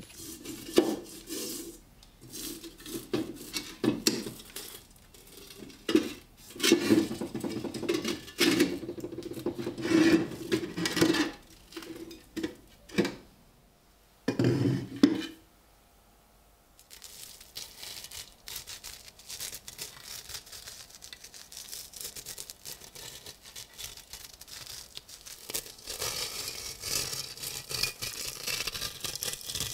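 Irregular scraping, rubbing and knocking from a rusty steel helmet being handled, quieting briefly about halfway and then turning to fainter, steadier rustling.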